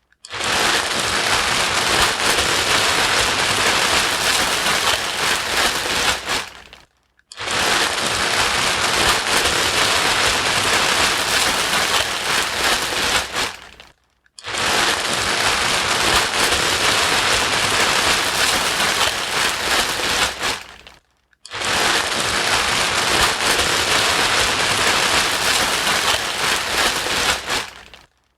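White noise for soothing a crying baby: a loud, even, rain-like hiss. It comes in four stretches of about seven seconds, each starting abruptly and tailing off into a half-second silence, as a looped sample repeats.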